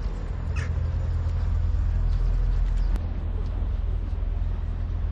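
Outdoor city ambience dominated by a steady low rumble, with a few faint ticks and one brief high squeak about half a second in.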